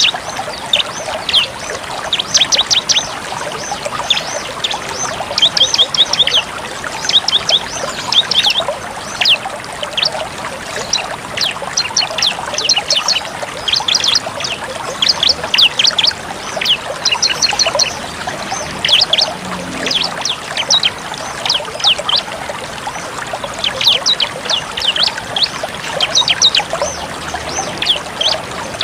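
Bar-winged prinia (ciblek) singing its rapid-fire 'tembak' song: quick clusters of sharp, high, downward-flicking notes, repeated again and again over a steady hissing background.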